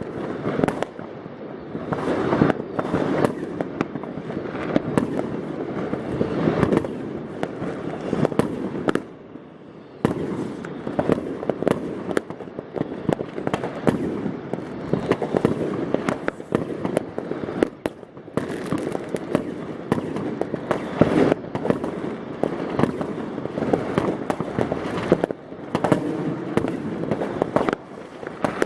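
New Year's Eve fireworks and firecrackers going off in a dense, continuous barrage: overlapping bangs and crackling with barely a pause, easing off briefly about nine seconds in.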